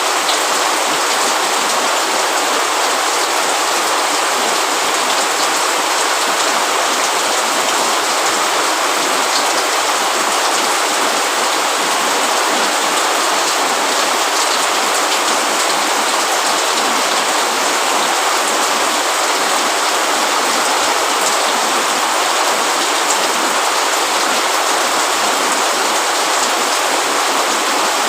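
Steady rain: an even hiss of rainfall with faint individual drops ticking through it.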